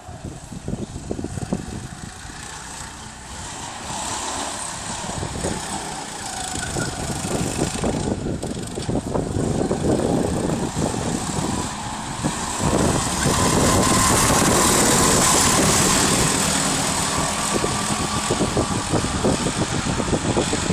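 Go-kart engines running as karts race on the track, the sound growing louder through the middle and loudest about two-thirds of the way in before easing slightly.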